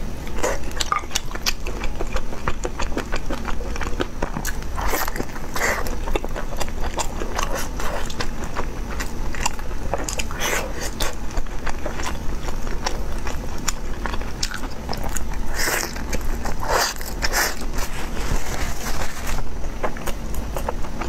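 Close-miked chewing and biting of food, with many short wet mouth clicks and smacks scattered irregularly, over a steady low hum.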